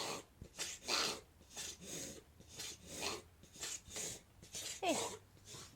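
A whippet reverse sneezing: a run of rasping, forced inhalations through the nose, about one a second, with a short squeaky note near the end. It is a common reflex spasm, harmless, that passes on its own.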